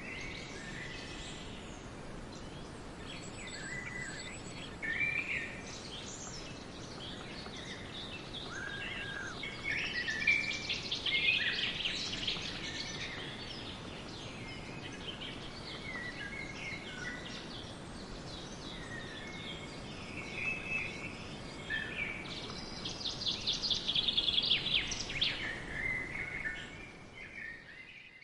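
Birds chirping and calling in many short, varied notes over a steady background of outdoor noise, busiest about ten seconds in and again near the end.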